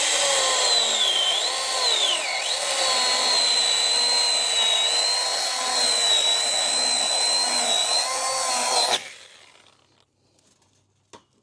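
Stihl battery-powered mini pruning chainsaw running with a steady whine as it cuts through wood, its pitch dipping twice in the first couple of seconds as the chain takes the load. It cuts off suddenly about nine seconds in, with the bottom section sawn off.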